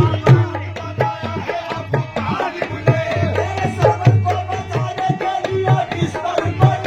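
Qawwali music without singing: a dholak plays a fast, steady beat under a held melody line.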